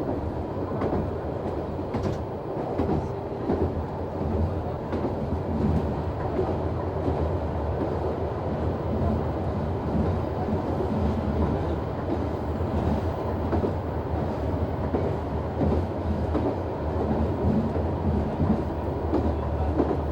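Noto Railway NT100 diesel railcar running along the line, heard from inside the cab: a steady engine drone and rumble of the running gear, with scattered clicks from the wheels on the rails.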